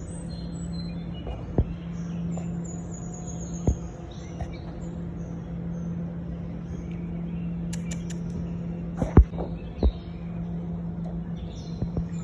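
Small birds chirping again and again in high, short calls and falling trills, over a steady low hum. A few sharp knocks break in, the loudest about nine seconds in.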